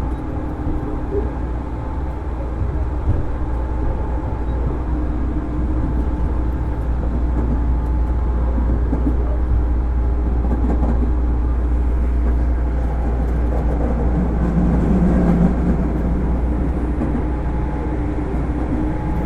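Onboard running sound of a JR 205 series electric motor car with MT61 external-fan traction motors: a steady rumble of wheels on rail under the hum of the motors, with several held tones. It grows slightly louder in the second half.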